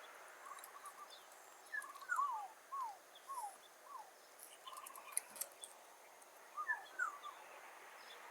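Zebra dove cooing: quick stuttering notes followed by a run of short, falling coos, in two phrases with a pause of a couple of seconds between them.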